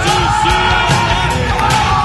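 Hard rock song with a male singer holding long notes over loud drums and guitars.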